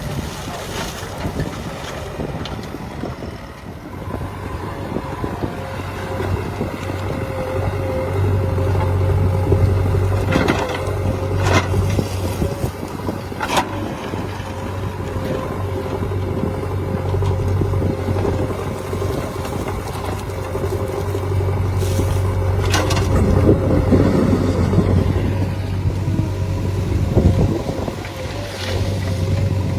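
Heavy diesel engine running steadily with a constant higher whine, getting louder twice as it works harder. Several sharp knocks and scrapes are mixed in, about a third of the way through and again about three-quarters through.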